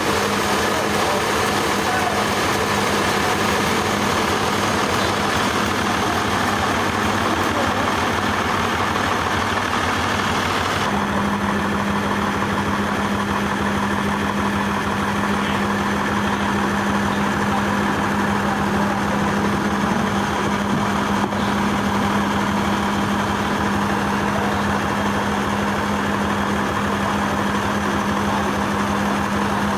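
Heavy sawmill machinery running steadily with a constant engine-like hum. About eleven seconds in the sound changes: a stronger low hum comes in and the high hiss drops away.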